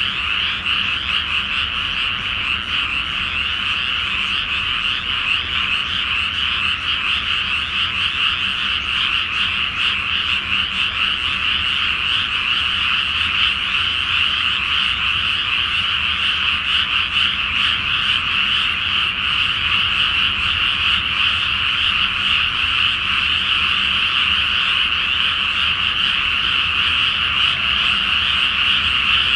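Dense chorus of many frogs calling together in a flooded rice paddy: a continuous, high-pitched wall of overlapping croaks with no pauses.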